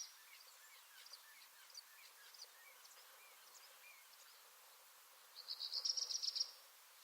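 Songbirds singing in a garden: faint scattered chirps and short calls, then a louder, fast high trill about five and a half seconds in that lasts about a second.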